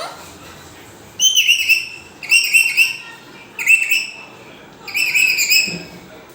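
Parrot giving four short, shrill, high-pitched calls about a second apart.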